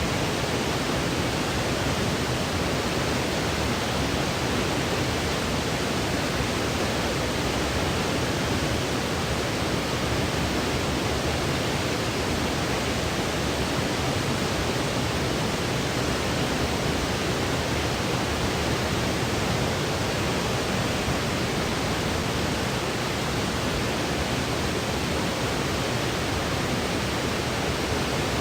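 Steady synthetic white noise for baby sleep: an even, unchanging hiss with no rhythm, tones or breaks.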